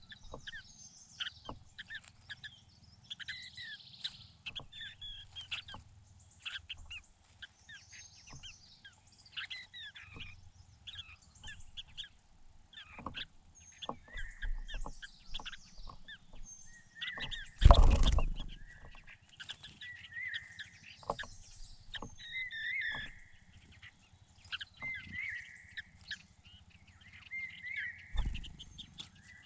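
Small birds chirping and calling without a break: a parent calling its fledglings out of the nest, with one call repeated about every second and a half in the second half. A loud thump comes about 18 seconds in and another near the end.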